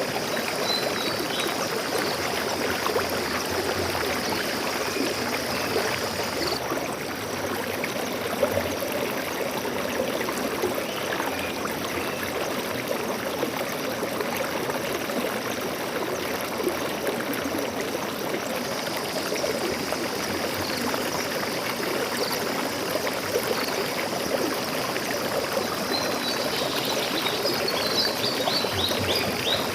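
Water flowing in a stream, a steady rushing and trickling. Brief high bird chirps come about a second in and again near the end.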